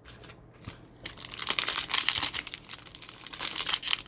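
Plastic-foil trading-card pack wrapper being crinkled and torn open, starting about a second in and going on as a dense crackle.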